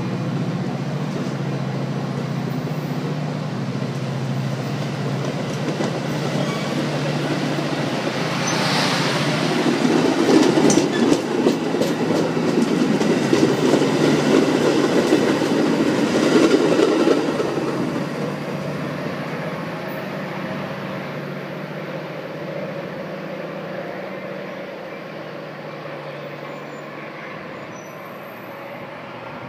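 Metra bilevel commuter train departing, its stainless-steel cars rolling past close by: a steady low hum at first, then louder rolling noise with rapid wheel clicks from about nine to seventeen seconds in, fading off as the last car pulls away.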